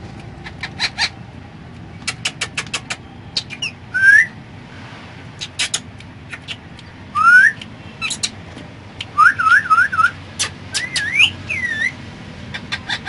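Indian ringneck parrot whistling: loud rising whistle notes, a quick wavering trill and further glides, mixed with bursts of sharp rapid clicks.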